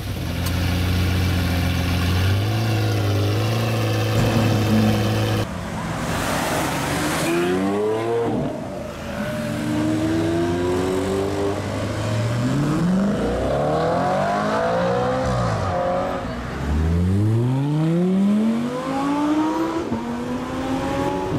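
Supercar engine held at steady revs, stepping up slightly, then cut off abruptly. After that a hard acceleration, the engine note rising again and again as it shifts up through several gears.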